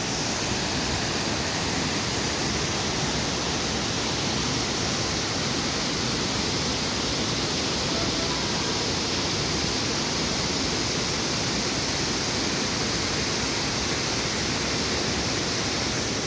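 Waterfall rushing, a steady, even roar of falling water with no change throughout.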